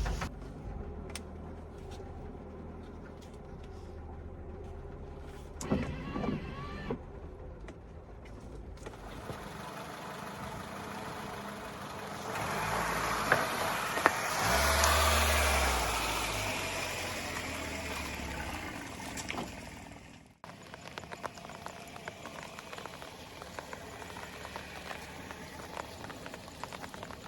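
Honda Mobilio driving in heavy rain: a low engine hum under rain and tyre noise, swelling louder for several seconds past the middle. After an abrupt cut near the end, only rain pattering is heard.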